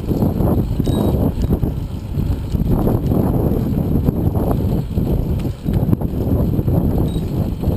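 Wind rumbling and buffeting on a GoPro's microphone while riding a bicycle, mixed with the noise of the bike rolling along the path.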